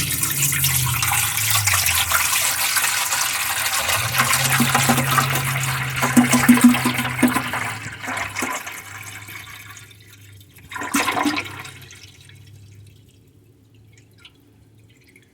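Filtered water poured into a humidifier's water tank, a steady rush that tails off about eight seconds in. One more short splash follows a few seconds later as the tank is filled.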